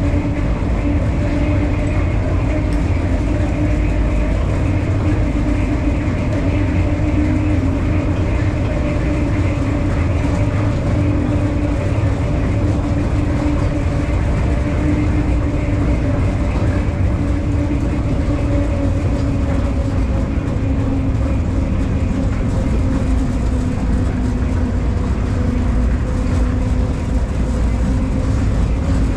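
Mine tour train running through a tunnel, heard from a passenger car: a steady heavy rumble with a constant hum over it.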